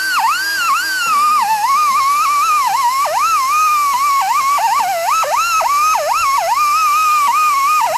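Angle grinder cutting metal: a continuous high whine whose pitch dips sharply each time the wheel bites and recovers as it frees up, with the dips coming thick and fast past the middle.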